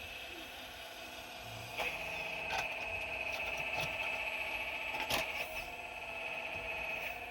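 Excavator working with a steady high-pitched whine from its machinery, while sharp clanks come about four times as the bucket works against rock.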